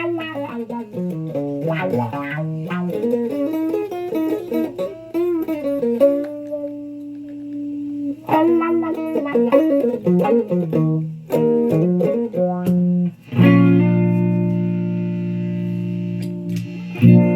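Electric guitar played solo: quick single-note runs up and down the neck, a held note about six seconds in, more runs, then long ringing notes from about thirteen seconds, with a fresh pick attack near the end.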